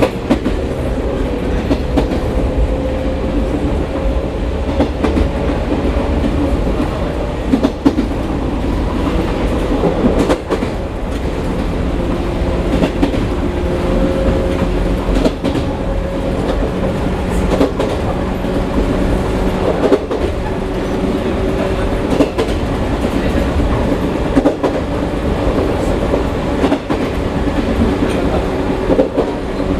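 Former JNR 101 series electric train (Chichibu Railway 1000 series) running: its DC traction motors and gears give a steady whine in several tones over a low rumble. Wheels clack over rail joints at irregular intervals.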